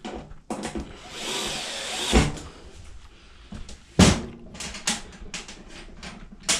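Clicks, taps and knocks of tools and washer parts being handled during reassembly: a rasping scrape about a second in, a sharp knock just after two seconds, and a louder knock about four seconds in.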